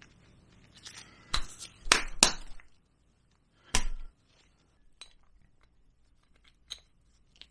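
Metal scooter variator parts clinking against each other as they are handled and set down: several sharp clinks in the first four seconds, then a few light ticks.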